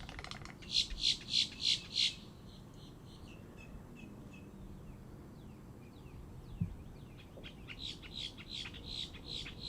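A bird calling a fast, evenly spaced series of short notes, about three a second, which stops about two seconds in. Fainter thin, downward-slurred calls follow, and the series comes back more quietly near the end.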